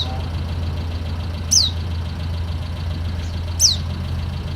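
Pleci (white-eye) calls: a short, thin, high whistle falling steeply in pitch, three times about two seconds apart, used as a lure call for other pleci. A steady low hum runs underneath.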